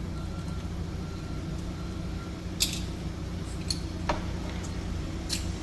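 Steady low machine hum of a tyre workshop, with a few faint clicks and two short hisses.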